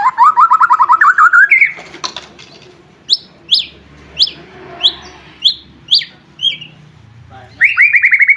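White-rumped shama (murai batu) singing. It opens with a fast, rising trill of clipped notes, then gives a string of about seven sharp whistles, each sliding downward, about half a second apart. Near the end comes another fast trill.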